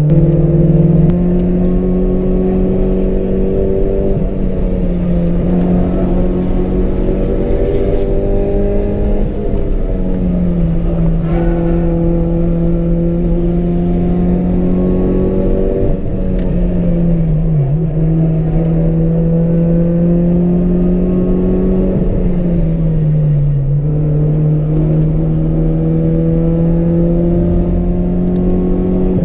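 Honda Civic EJ6's stock 1.6-litre D16 four-cylinder engine pulling hard under load, its pitch climbing slowly for several seconds and then dropping back, about four times.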